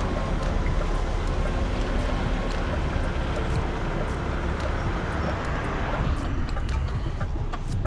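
Semi truck engine running with road noise, heard from inside the cab, with light ticks throughout. The higher road noise eases about six seconds in, as if the truck is slowing.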